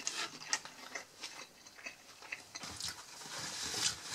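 A person chewing a mouthful of cheeseburger, with small scattered mouth clicks and smacks.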